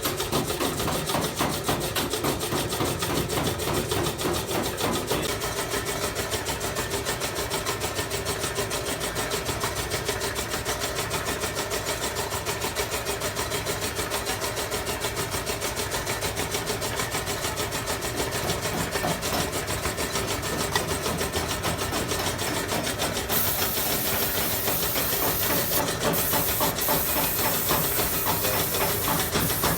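A fast, steady mechanical pulsing, like a workshop air compressor running. About two-thirds of the way in, a loud compressed-air hiss starts and cuts out briefly twice.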